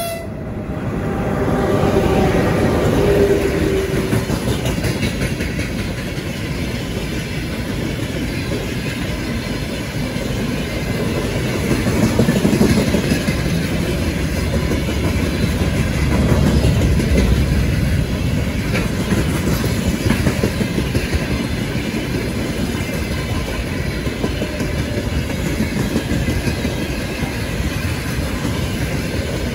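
Train running on the rails: a loud, steady rumble that swells a little now and then.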